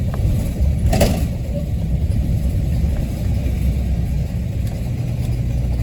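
Bus engine running with a steady low rumble, with one sharp knock about a second in.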